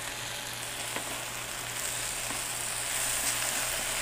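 Broccoli florets, carrot, potato and ginger sizzling in hot oil in a nonstick wok as they are stir-fried with a wooden spatula, the broccoli freshly added. The sizzle grows louder about two seconds in.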